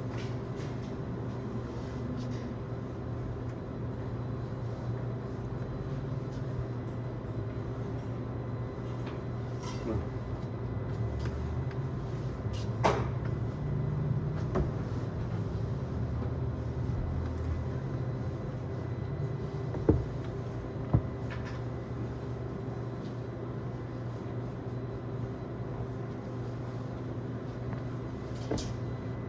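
Steady hum of a car driving, heard from inside the cabin, with a few sharp knocks and clicks, the loudest about halfway through.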